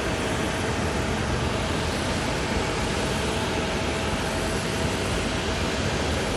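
Steady rush of jet aircraft noise at the airport, with a faint held tone throughout.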